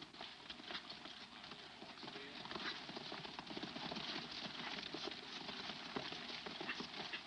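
Horses' hoofbeats: a steady run of clip-clops.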